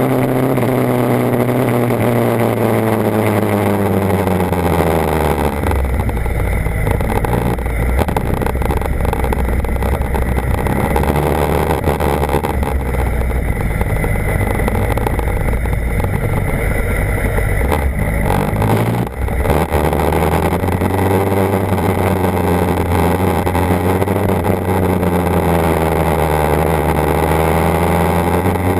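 BMW HP4's inline-four engine: revs fall over the first few seconds, it runs low and steady through the middle, then the revs climb again and rise and fall near the end.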